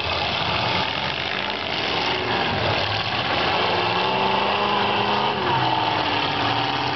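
Demolition derby cars' engines running and revving together in a loud, steady din, one engine's note dropping about two-thirds of the way through.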